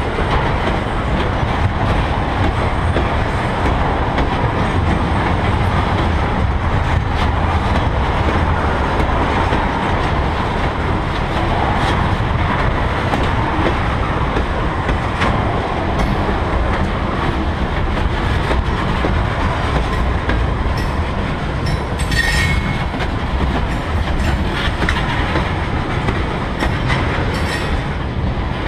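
Freight train tank cars rolling past at close range: a steady rumble of steel wheels with clickety-clack over the rail joints. A brief high wheel squeal cuts through about three-quarters of the way in.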